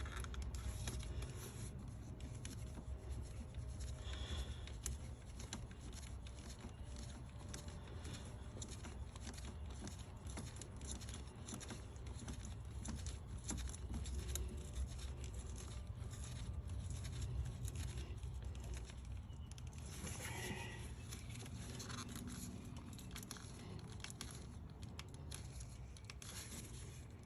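Hands working in a Lexus 1UR-FE V8 engine bay, fitting ignition coils back into the spark plug wells: many small clicks and scrapes over a low steady hum.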